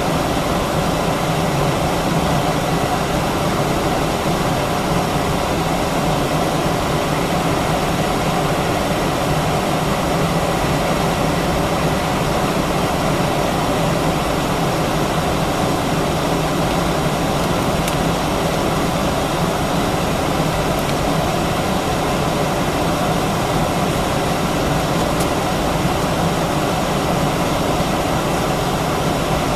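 Steady drone inside an Airbus A319 airliner's cabin: its IAE V2500 engines and cabin air running evenly, with a faint steady whine mixed into the rushing noise.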